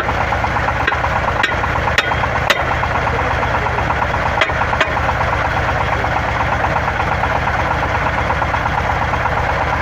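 Water well drilling rig's engine running steadily with an even pulse, and several sharp knocks in the first five seconds.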